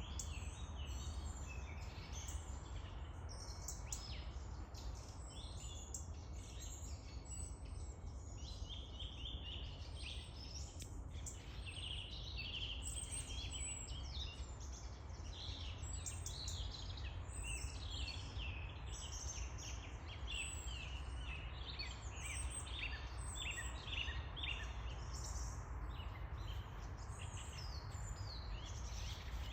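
Birdsong: many short, high chirps and calls from several birds overlapping, over a steady low rumble.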